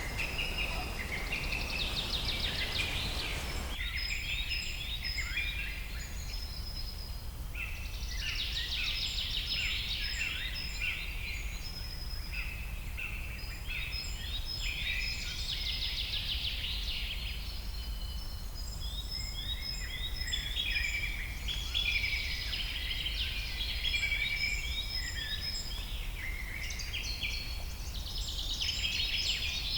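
Several songbirds chirping and singing at once, short repeated calls and trills overlapping, over a steady low rumble. A broader hiss stops about four seconds in.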